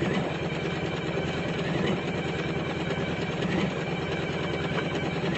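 Janome Memory Craft 550E computerized embroidery machine stitching at a steady speed, a rapid even needle rhythm during a test stitch-out.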